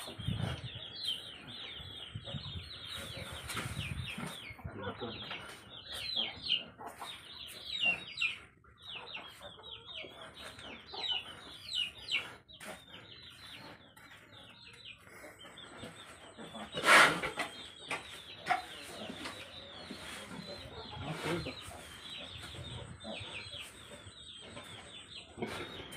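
Birds chirping busily: a steady stream of short, falling chirps, with one loud sharp noise about 17 seconds in.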